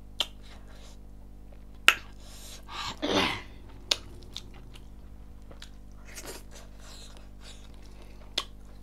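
Close-miked chewing of chicken and rice with the mouth full, with a few sharp wet mouth smacks a second or more apart. About three seconds in comes a short hum that falls in pitch.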